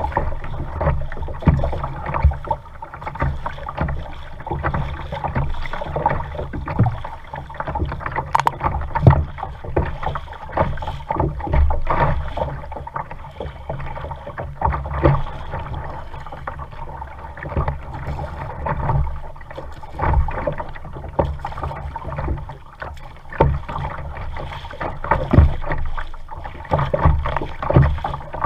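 Kayak out on the water being paddled: water splashing and lapping at the hull, with frequent irregular knocks.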